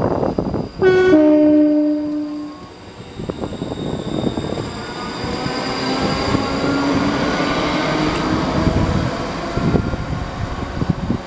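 Train horn sounding two notes, a higher one then a lower one, for about two seconds. A train then runs through the station with a rising rumble and a whine that glides in pitch.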